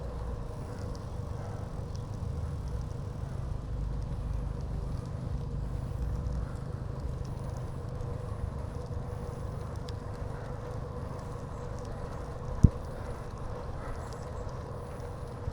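Bicycle in motion: a steady low rumble of tyres on the path and wind on the microphone, with one sharp knock near the end as the bike goes over a bump.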